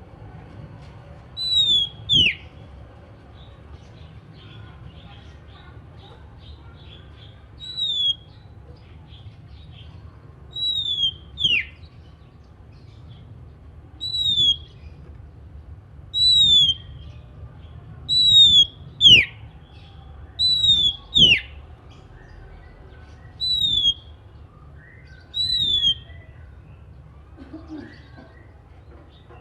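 Oriental magpie-robin (kacer) calling a short, loud, down-slurred whistle over and over, about one every two seconds, some notes followed by a second, steeper falling note.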